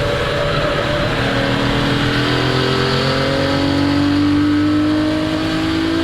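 1961 Ferrari 250 GT SWB's Colombo V12 engine under full load on track. About a second in it drops in pitch on an upshift, then the revs climb steadily through the next gear.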